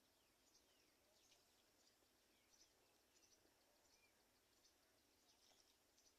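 Faint, high-pitched bird chirps, many short ones several times a second, with a few brief downward-gliding whistles, over near silence.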